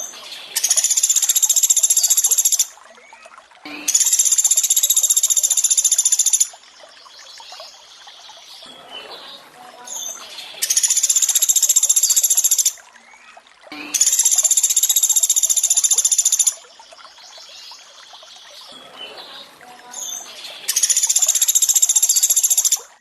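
Pelatuk beras (small woodpecker) 'tembakan' call: a rapid, high, buzzing trill lasting two to three seconds, repeated five times, over a steady trickle of running water.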